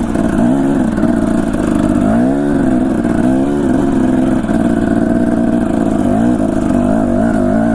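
Dirt bike engine running at low speed, its pitch rising and falling every second or so as the throttle is worked on and off.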